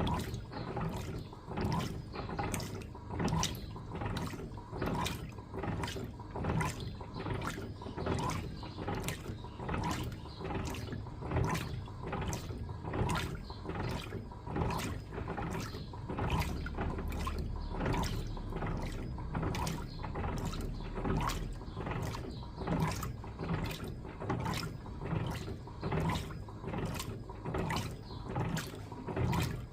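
Electrolux LTA15 top-loading washing machine agitating a load of bed linens, churning the water and laundry in a steady rhythm of about three strokes every two seconds over a low motor hum.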